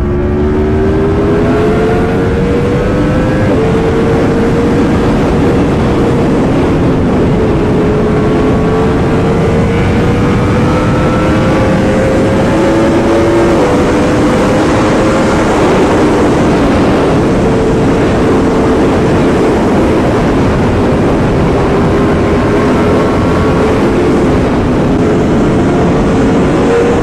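Yamaha R1M's crossplane inline-four with an aftermarket titanium exhaust, running under way at steady cruising revs. Its pitch climbs slowly and drops back in small steps several times, as with gear changes.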